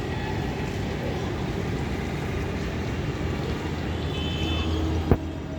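Steady outdoor background noise with a low rumble, with a brief high tone about four seconds in and a sharp click about five seconds in.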